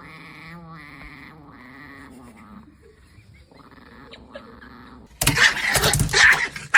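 Pomeranian making a series of short, pitched whining grumbles, then breaking into loud, harsh excited barking about five seconds in.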